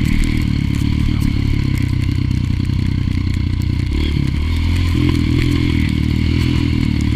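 Honda single-cylinder four-stroke trail bike engine running at low speed on a muddy track. The throttle eases off about four seconds in and picks up again a second later, with clatter and knocks from the bike over the ground.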